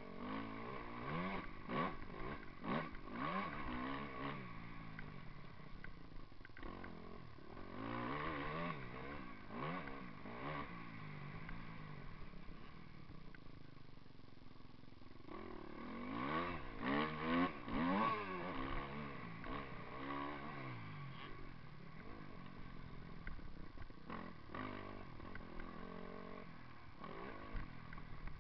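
Motocross bike engines revving up and down again and again, pitch climbing and dropping through the gears, with the strongest bursts of revving a little past the middle.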